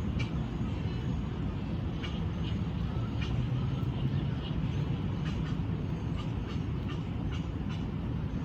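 Small birds chirping in short calls many times over, above a steady low rumble of traffic.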